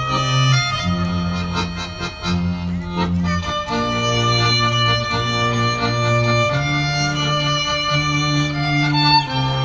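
Live instrumental music with bowed strings: a low line of long held notes, each changing after about a second, under a higher sustained melody.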